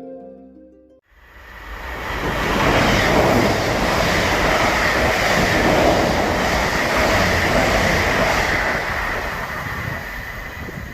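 Train running on the rails: a loud rush of wheel and track noise that builds over a couple of seconds and then holds steady, with a faint high whine through it.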